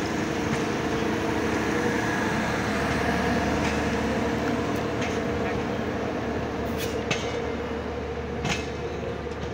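Indian Railways passenger train rolling slowly past close by: a steady mechanical hum and rumble, with a few short clicks about seven and eight and a half seconds in.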